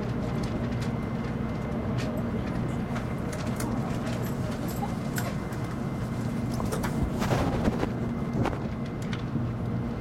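Inside the cabin of an N700 series Shinkansen train: a steady low running hum with scattered short clicks and knocks, thickest about seven to eight seconds in, typical of the train rolling slowly out of the station over points and rail joints.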